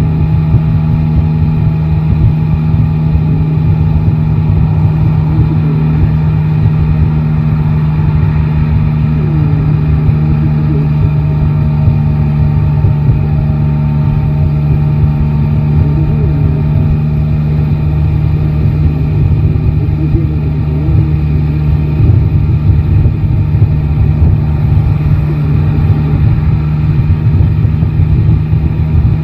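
Yamaha Tracer 9 GT's inline three-cylinder engine running at fairly steady revs while riding, heard loud and close on the bike.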